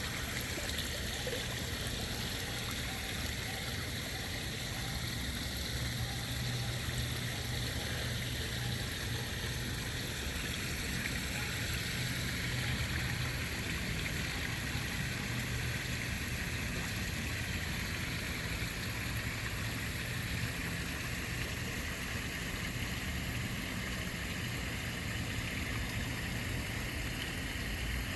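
Steady running, trickling water of a koi pond, with a low hum underneath.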